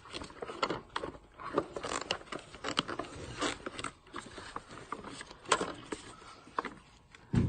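Wire coat hanger scraping and clicking irregularly inside a clogged vacuum cleaner hose as it is worked to dig out packed dust and dirt, with a louder knock near the end.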